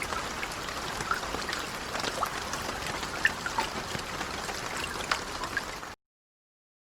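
Steady rain with many small distinct drops pattering close by, which cuts off suddenly about six seconds in, leaving silence.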